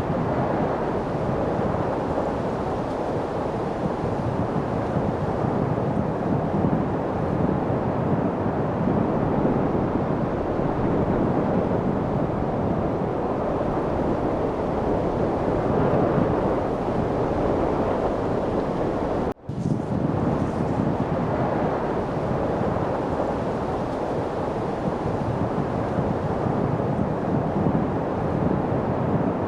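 Steady wind noise, an even hiss with no pitch to it. About two-thirds of the way through it cuts out for an instant, then comes straight back.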